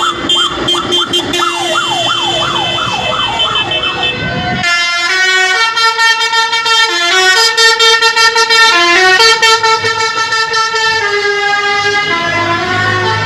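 A vehicle's musical horn. It first plays a fast up-and-down warbling wail, then, about four and a half seconds in, switches to a tune of held notes that step up and down in pitch.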